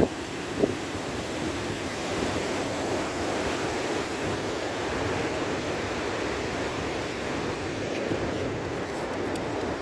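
Rough sea surf washing and breaking in a steady rush, with wind on the microphone. A brief thump about half a second in.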